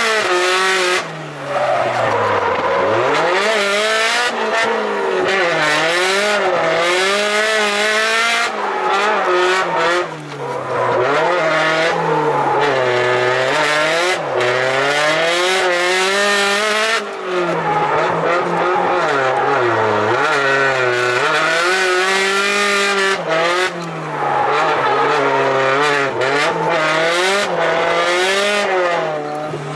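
Turbocharged car engine driven hard on track, its revs climbing and falling continuously, with tyres squealing. The engine note drops sharply about four times as the revs fall away.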